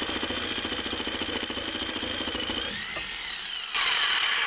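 Reciprocating saw (Sawzall) cutting through a car's steel exhaust pipe, running with a rapid even stroking rhythm. Nearly three seconds in the stroking stops and the pitch sweeps; a louder steady hiss follows near the end.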